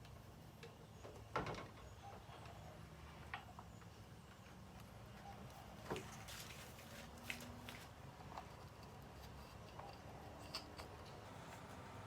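A few scattered sharp clicks and light knocks of tools and engine parts being handled, the loudest about a second and a half in, over a low steady hum.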